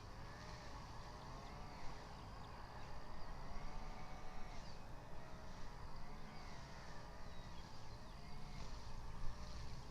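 Distant road traffic rumbling, with a siren-like wail that rises and falls about once a second.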